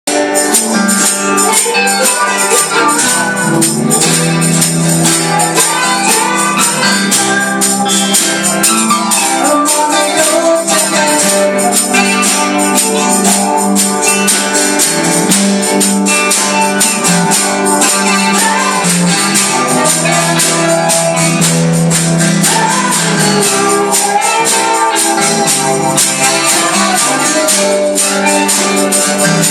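Live gospel music: a band playing with a fast, steady shaken-percussion beat running through it.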